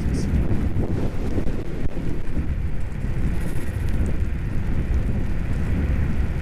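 Strong wind buffeting the microphone of a camera worn while riding an electric scooter: a steady, heavy rumble with no letup.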